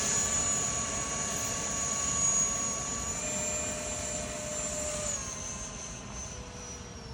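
Twin electric ducted fans of a Freewing Eurofighter Typhoon RC jet whining in flight. The steady high whine steps up slightly about three seconds in, then falls in pitch and fades toward the end.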